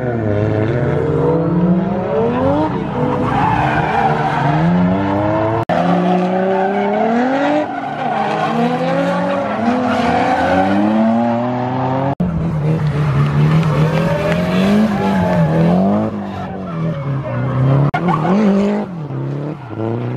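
Drift cars' engines revving hard, the pitch climbing and dropping again and again with throttle, over tyre squeal as the cars slide.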